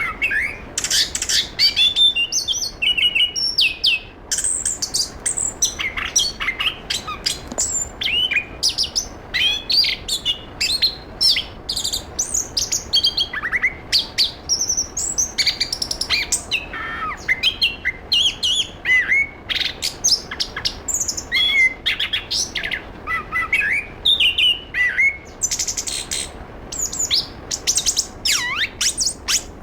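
Chestnut-capped thrush (anis kembang) singing non-stop: a rapid, varied run of high whistled notes, short trills and quick up-and-down pitch glides, with barely a pause.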